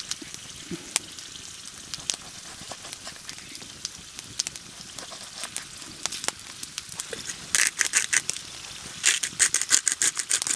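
Sliced potatoes frying in oil in a small skillet over a campfire: a steady sizzle with scattered sharp pops and crackles. About two-thirds of the way in and again near the end comes a quick run of scraping, clicking strokes.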